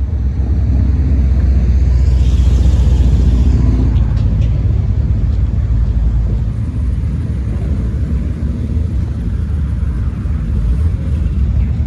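Car engine running with a deep, steady rumble, swelling louder about two seconds in and easing back by four seconds.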